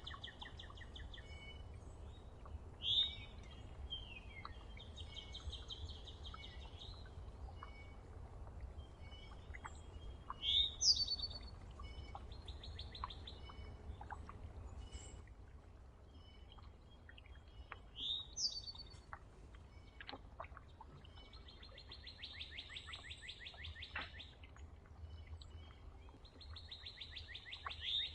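Songbirds calling: sharp upward-sweeping whistled notes four times, the last near the end being the loudest, and several rapid buzzy trills in between, with scattered faint ticks over a low steady background rumble.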